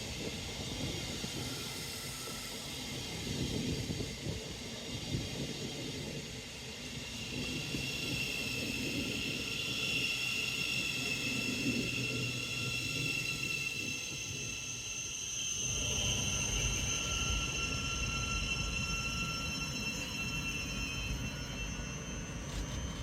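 A train on the main line, with steady high-pitched whining tones over a rumble; the low rumble grows heavier about sixteen seconds in.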